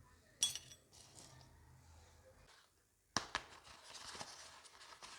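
Miniature toy kitchen pieces clinking and clicking against each other as they are handled, with two sharper clinks about half a second in and about three seconds in.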